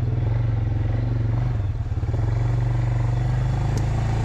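Small single-rider farm vehicle's engine running steadily at low speed while being ridden, with a brief dip in engine sound about two seconds in.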